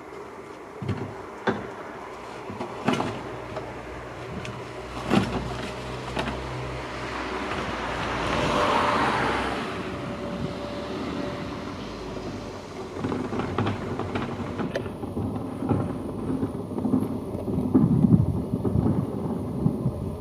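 Outdoor background noise with scattered knocks, and a vehicle passing that swells and fades about eight to ten seconds in.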